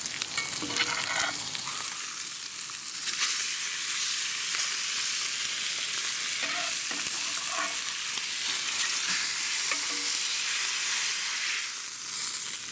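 Pork tenderloin searing in a hot pan with butter: a steady sizzling hiss as the butter is spooned over the meat.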